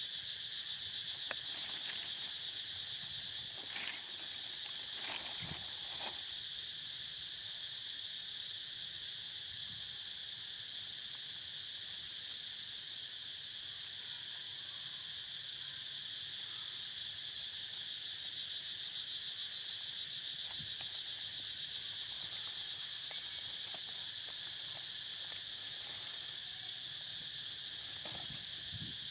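Steady, high-pitched chorus of insects, with a few faint clicks and knocks near the start and near the end.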